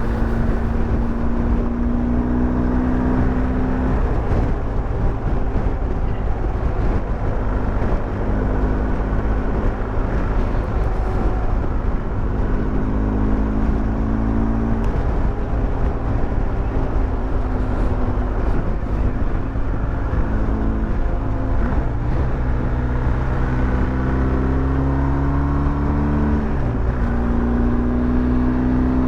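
Motorcycle engine running at road speed while riding, over steady wind and road noise. The engine note rises and falls with the throttle and drops sharply in pitch near the end before climbing again.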